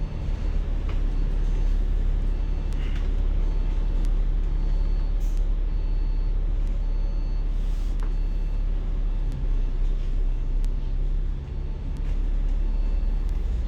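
City bus running, heard from inside the cabin: a steady low engine and road rumble with a constant hum and a few faint rattles.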